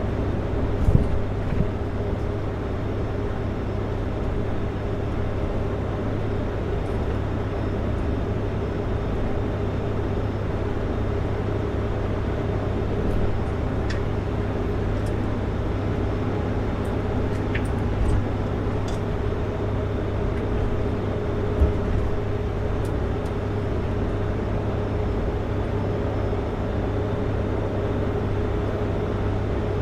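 Kenworth W900L semi truck cruising on the highway: a steady engine drone and road noise, with a constant low hum. A few brief knocks come through, about a second in and twice more later on.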